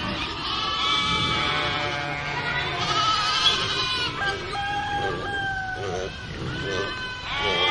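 Farm animals bleating: several overlapping long calls with a wavering, trembling pitch.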